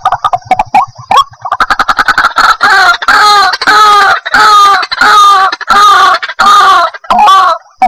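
White-breasted waterhen calling. A fast stuttering run of short notes builds into a loud series of harsh, repeated 'kru-ak' calls at about two a second.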